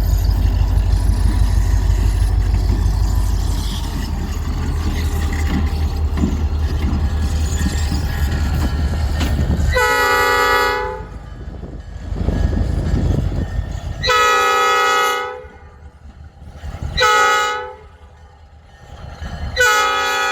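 Locomotive air horn sounding the grade-crossing signal: long, long, short, long, a chord of several tones, with the last blast still sounding at the end. Before the horn, a low steady engine rumble for about ten seconds.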